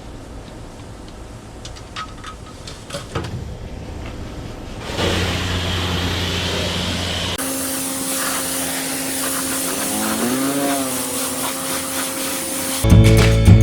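High-pressure water rinsing a car: a motor hum with spraying water, which gets louder about five seconds in and turns to a high hiss a few seconds later.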